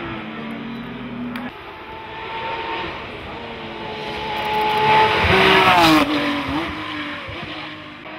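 Porsche race car's flat-six engine running hard up a hill-climb course. It builds to its loudest about five to six seconds in, and the pitch drops as the car goes by.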